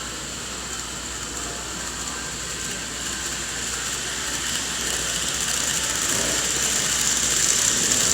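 Model train running on the layout track: the motor's high whine and wheel rumble on the rails grow steadily louder as it approaches.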